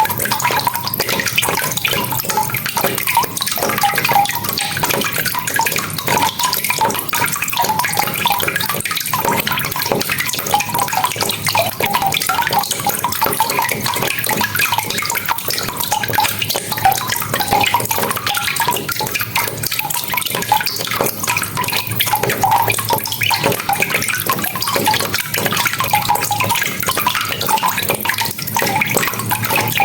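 Steady rain, dense with the clicks of falling drops and splashes, with a gurgle of running water.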